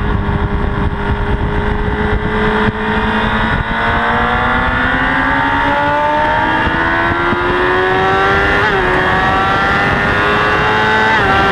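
Honda CBR1000RR inline-four engine heard from a camera mounted on the bike, over heavy wind rush. It holds a steady note for a few seconds, then climbs steadily under acceleration, with two quick gear changes that briefly break the rising pitch near the end.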